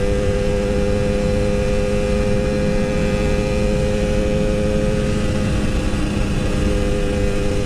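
Yamaha RX King 135cc two-stroke single-cylinder engine running at a steady cruise while riding, with wind rumble on the microphone. The engine note drops a little past the middle, as the throttle eases.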